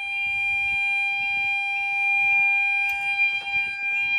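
The crossing's four flat-tone level crossing alarms sound continuously as the barriers lower: a steady high tone with a second tone pulsing about three times a second over it.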